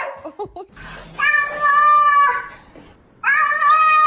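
Cat meowing: two long, drawn-out meows, the first starting about a second in and holding for about a second, the second near the end.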